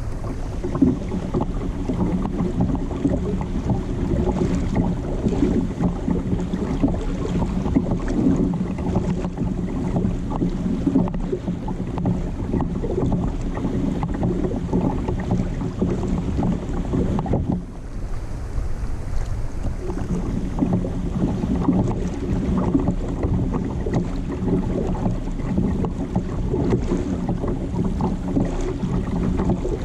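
Steady wind buffeting the microphone with a low hum and water noise on a kayak at sea; the hum drops out briefly a little past halfway, then resumes.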